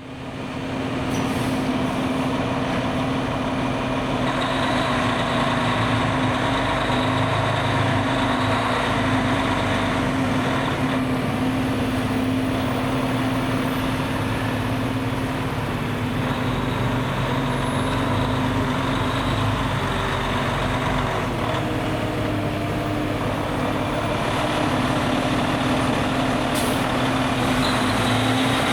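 Fire truck's engine running steadily, with a constant droning hum that holds one pitch.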